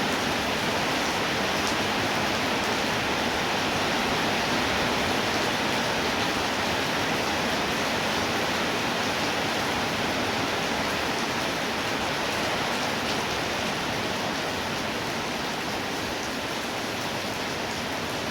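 Steady heavy rainfall, a dense even hiss of rain pouring down, easing slightly toward the end.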